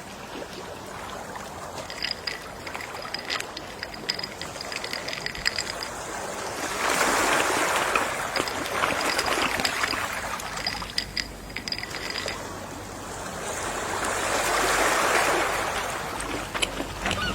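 Gentle sea waves washing onto the shore, with two slow swells of surf, the first about seven seconds in and the second near the end. A faint high steady tone runs underneath for a few seconds at a time.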